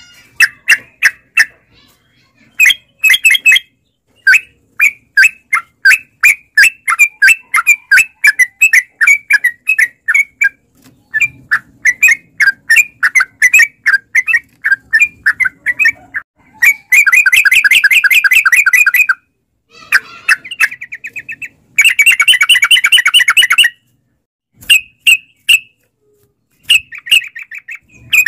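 Yellow-vented bulbul (trucukan) singing: quick runs of short, bubbly chirps, broken by two long, fast rolling trills past the middle.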